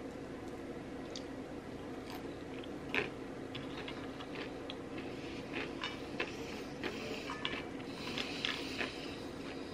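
Close-miked eating of crispy KFC fried chicken. A sharp crunching bite comes about three seconds in, followed by a run of crackly, crunchy chewing until near the end, over a steady low background hum.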